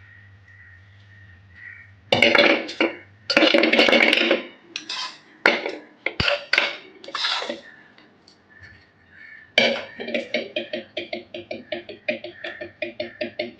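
Metal pots and utensils clattering and scraping in loud irregular bursts as chicken gravy is moved from a pressure cooker into another vessel. About two-thirds of the way in, background music with a steady beat comes in.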